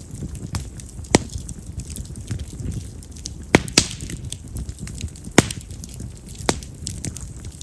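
Wild cherry (yamazakura) firewood burning in an open campfire: a low, steady rustle of flame broken by sharp crackles and pops, the loudest about a second in, twice near three and a half seconds, and just past five seconds. Wild cherry is a wood that crackles hard, with firecracker-like snaps.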